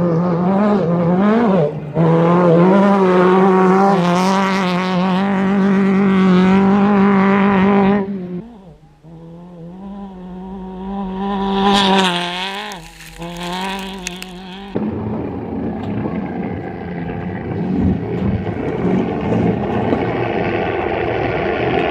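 Off-road race vehicles passing at full speed, engines running flat out at a high, steady pitch. The sound drops away about eight seconds in, surges again with a burst of gravel and tyre hiss around twelve seconds, and gives way to a rougher engine sound near fifteen seconds.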